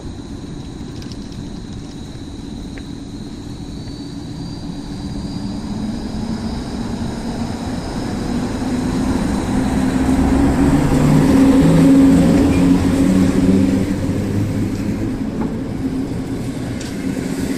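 EU07 electric locomotive with a passenger train moving through the station. Its low rumble carries several low tones that step in pitch, grows to its loudest about twelve seconds in, then eases off.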